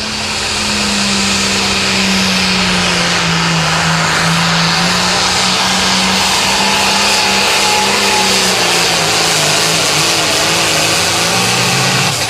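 International Harvester 966 pulling tractor's turbocharged diesel engine running flat out under load while dragging the sled, its pitch sagging slowly as the load builds. The engine note drops away sharply right at the end as the run finishes.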